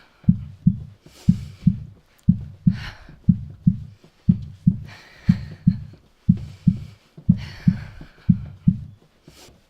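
Heartbeat, a steady low double thump (lub-dub) about once a second, with heavy breaths drawn in and out between beats; the beats stop shortly before the end.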